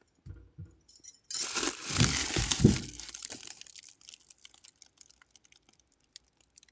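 Handling noise: a burst of rustling and crinkling with a few low knocks, fading into scattered light clicks.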